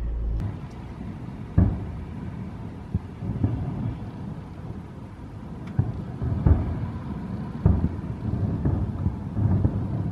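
Distant fireworks display: aerial shells bursting as a string of deep booms a second or two apart, over a steady low rumble. A car's cabin hum cuts off about half a second in.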